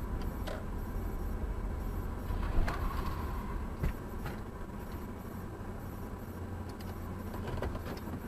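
Car on the move: steady low engine and road rumble, with a few short knocks, the loudest about two and a half and four seconds in.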